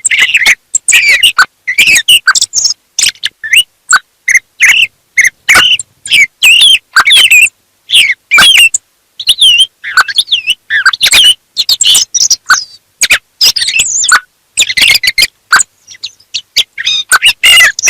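Thrushes singing in the morning: a quick, nearly unbroken string of short chirps and whistled notes, some sliding up and down in pitch.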